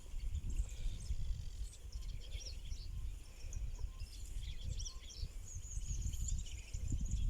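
Many small birds chirping in quick high calls over a steady low outdoor rumble.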